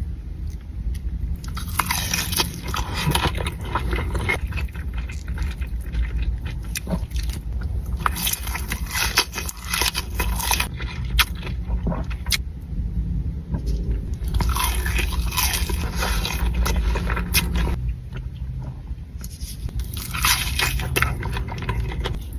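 Close-up crunching and chewing of Dave's Hot Chicken fried chicken, in four bouts of crisp bites and chews, over a steady low rumble.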